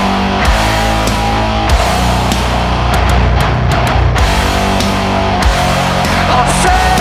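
Heavy metal music: distorted electric guitars playing chords over bass and drums, with no vocals.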